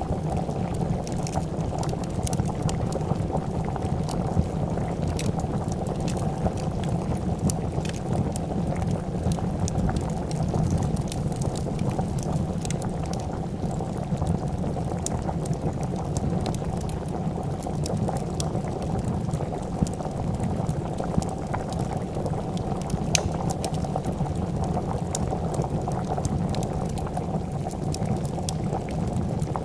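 A pot of soup boiling steadily with a dense bubbling, overlaid with the scattered sharp crackles and pops of a wood fire.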